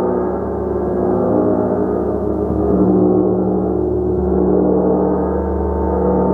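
A gong played continuously: a dense, sustained wash of many overlapping ringing tones, its low tones shifting a couple of times as it is struck again.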